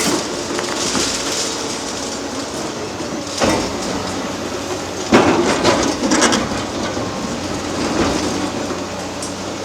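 Demolition excavator working on concrete: the engine runs steadily under a clatter of breaking concrete and scraping steel, with a short burst about three and a half seconds in and a louder, longer one about five to six seconds in.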